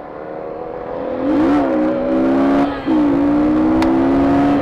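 Motorcycle engine accelerating hard, its note swelling up about a second in and holding high, with a brief drop a little before three seconds in as it shifts up a gear, then pulling on at full throttle.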